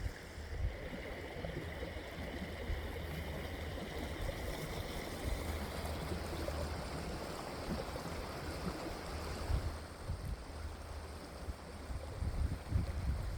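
Steady rush of running water from a stream, with low gusts of wind buffeting the microphone.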